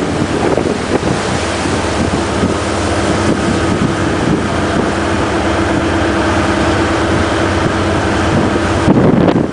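A tugboat's engine drones steadily under heavy wind buffeting the microphone and the noise of a rough sea. About nine seconds in, the hiss drops and a louder low rumble comes in.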